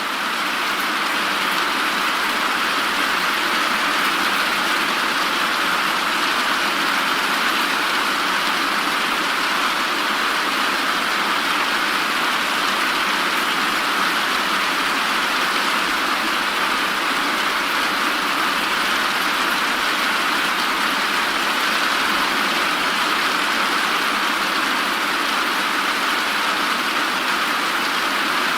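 Steady rain, an even, unchanging hiss.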